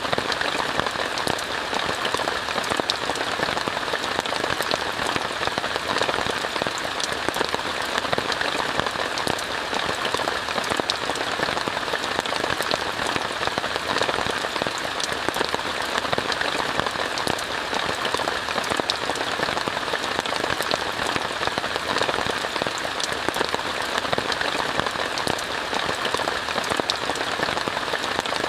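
Steady rain falling on a tent: an even hiss of rainfall with many small, sharp drop hits.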